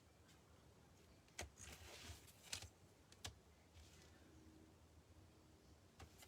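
Faint light clicks and taps of wooden craft sticks being set down and laid out side by side on a tabletop, a handful of separate clicks spread out over a few seconds.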